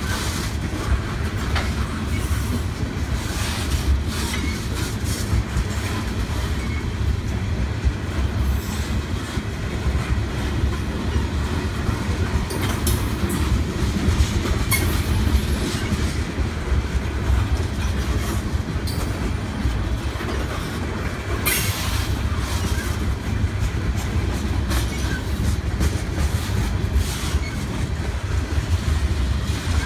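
Freight train of tank cars rolling past close by: a steady low rumble of steel wheels on the rails, with short high screeches from the wheels several times.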